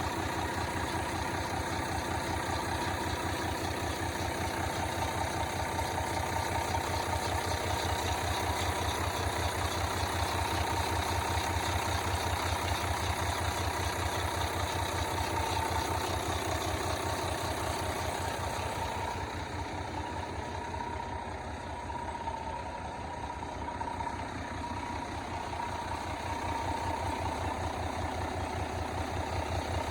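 Diesel engine of a 2008 International 7600 tandem tanker truck idling with a steady, even beat. It goes a little quieter and duller for a few seconds in the second half.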